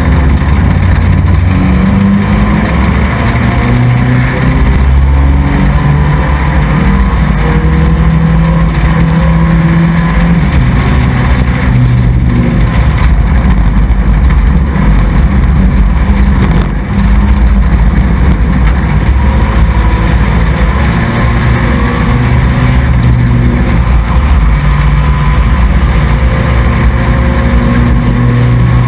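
Racing truck engine running hard on track, loud and continuous, its pitch stepping up and down with throttle, with a brief dip in level about seventeen seconds in.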